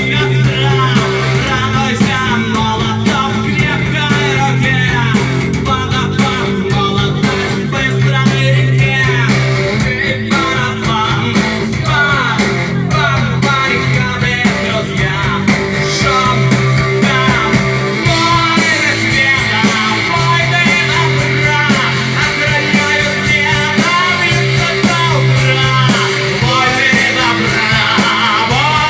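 Loud rock music played by a band with guitars and drums, the cymbals growing brighter about two thirds of the way through.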